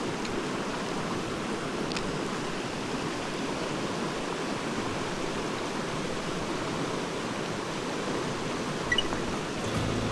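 Mountain stream flowing steadily, an even rush of water over rocks. A couple of small sharp clicks about nine seconds in.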